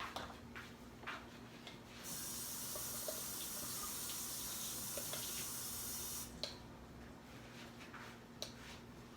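A few light clinks of dishes, then a steady high hiss for about four seconds that starts and stops abruptly, then more scattered clinks.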